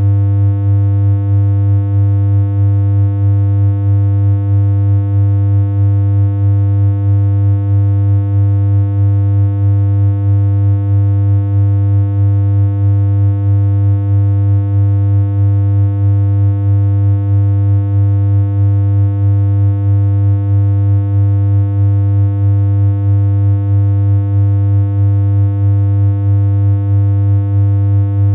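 Synthesized electronic hum: one low, unchanging pitch with a stack of steady overtones, with a slight even wobble in loudness about twice a second.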